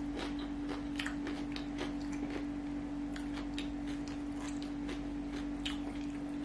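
Close-up mouth sounds of a person chewing fried rice and raw cucumber slices eaten by hand: irregular wet clicks and smacks, several a second. A steady low hum runs underneath.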